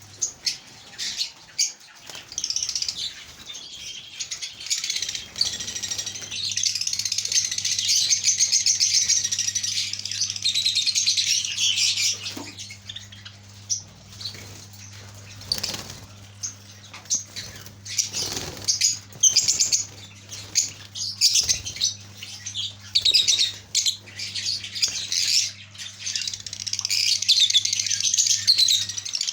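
A flock of lovebirds chattering in dense, high-pitched chirps, with scattered wing flutters and sharp clicks. A steady low hum starts about five seconds in and runs under it.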